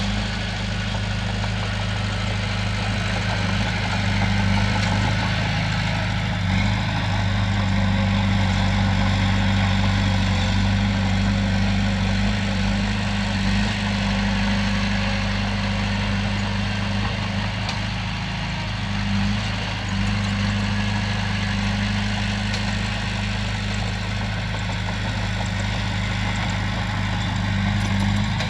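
Komatsu bulldozer's heavy diesel engine running steadily with a deep, even hum.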